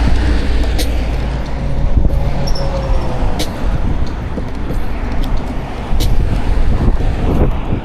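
Mountain bike ride heard through the camera's microphone: a steady rush of wind and tyre rumble, with scattered sharp clicks and rattles from the bike.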